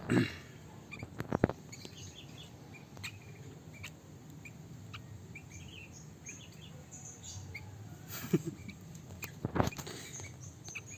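Small caged birds chirping and twittering with many short, high, scattered calls. A few sharp clicks or taps sound in between, the loudest near the start and twice late on.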